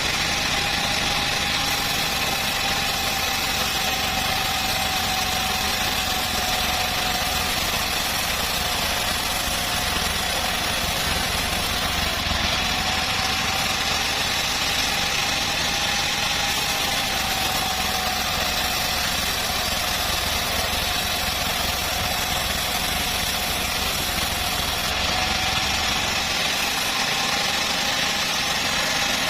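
Home-built bandsaw mill running steadily, with a high whine that drifts slowly up and down in pitch over a constant machine drone.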